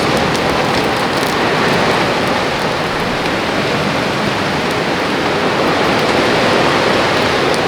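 Heavy rain falling in a steady, loud rush, with a few faint sharp drop taps in the first second or so.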